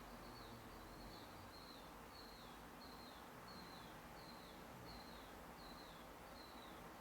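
A bird calling faintly, a short high falling note repeated evenly about every two-thirds of a second, over a steady background hiss.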